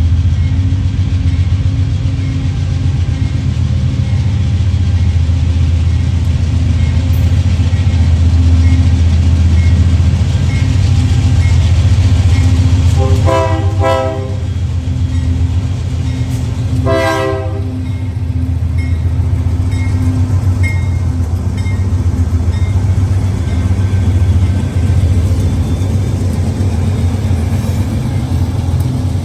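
Diesel freight locomotive running with a heavy, steady engine rumble. It sounds its multi-tone horn twice, about halfway through: a blast of a little over a second, then a shorter one.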